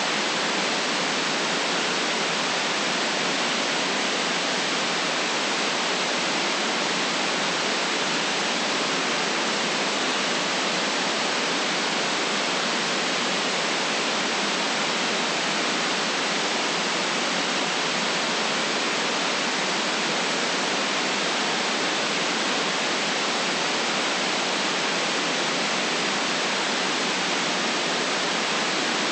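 Steady white noise: an even, unchanging hiss with little bass, at a constant level throughout.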